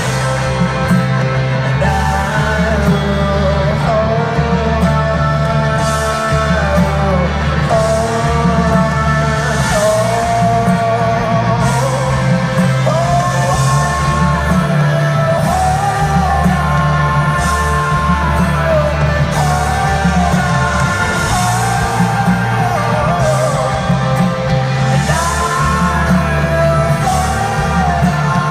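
Live folk-rock band playing loudly over a steady, heavy bass, with long held notes and a voice singing without words.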